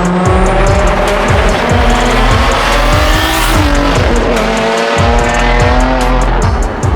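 A car engine accelerating hard, its pitch climbing for about three seconds, dropping at a gear change and then climbing again, over background music with a steady beat.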